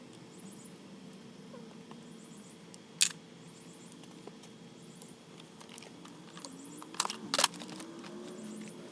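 Sharp metallic clicks of hand tools working on a Honda D17A1 engine during teardown: one about three seconds in, then two close together near the end, over a steady low hum.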